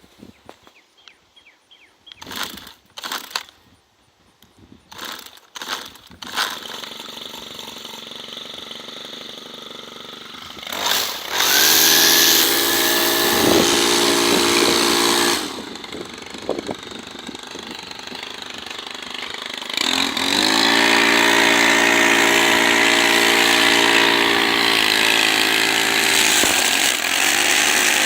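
Stihl FS 90R brushcutter cold-started: a few short pulls on the starter cord, then the engine catches about six seconds in and idles. It is revved up to high speed about eleven seconds in, drops back to idle about four seconds later, then revs up again and holds high speed near the end.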